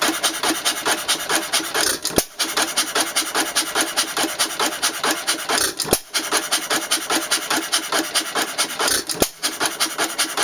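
1917 Empire 2½ hp hit-and-miss engine running, with a fast, even mechanical clatter. The rhythm breaks three times, with a sharp stroke and a short dip, about every three and a half seconds.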